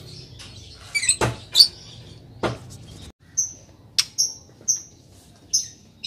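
Short high bird chirps, repeated about five times in the second half, with a couple of sharp knocks in the first half.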